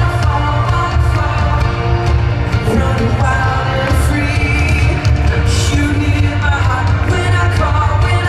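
Live concert band playing a worship song loudly, with heavy bass and singing.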